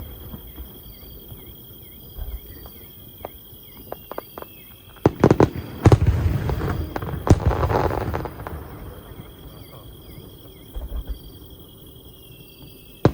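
Aerial fireworks shells bursting: two sharp booms about five and six seconds in, a third soon after, each trailing into a rumbling crackle, with quieter gaps either side. Insects chirp faintly and steadily in the lulls.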